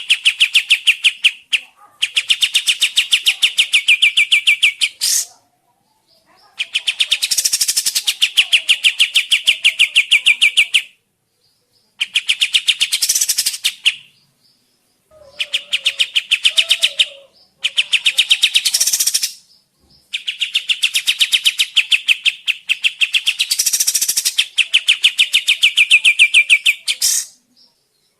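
Kapas tembak bird singing a rapid, evenly pulsed trill in repeated phrases of one to five seconds, separated by short pauses.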